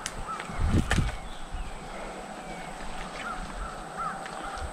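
Small birds calling with short repeated chirps and a falling whistle, over a steady outdoor hiss, with a short thump and click about a second in.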